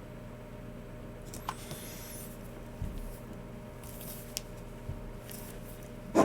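Logitech MX Keys Mini keyboard and G304 mouse in light use: a few scattered soft clicks and short swishes over a steady electrical hum, with two louder clacks at the very end.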